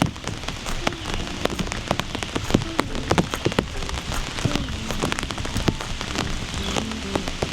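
Rain pattering steadily, with many sharp, irregular drip clicks over an even hiss. Faint soft tones come and go underneath.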